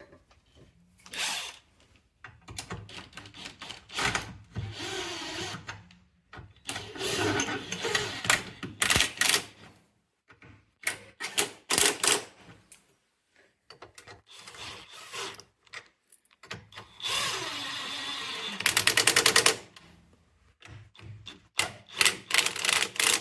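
Power tool running in repeated short bursts, one with a fast rattle, with sharp clicks between, as the 13 mm nuts holding the anti-roll bar bush caps are run back on and tightened.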